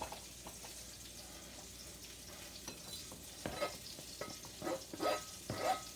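Beef burgers sizzling in a frying pan, a steady hiss. About halfway in comes a run of short knocks and scrapes, like a utensil working in a bowl.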